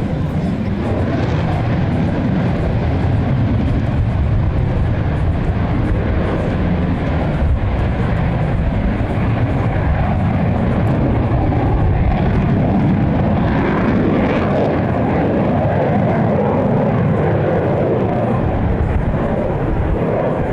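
Military aircraft in flight, a steady, loud engine rush with a heavy low rumble and slowly shifting tone.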